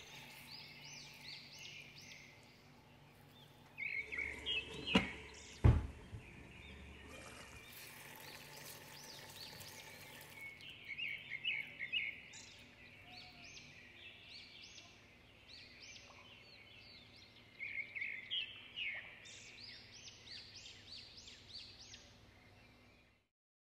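Small birds chirping in repeated short bursts over a low background hiss. Two sharp knocks come about five and six seconds in.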